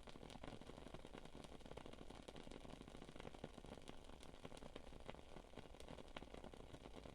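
Wood wick candle crackling faintly: a steady scatter of small, irregular pops and ticks.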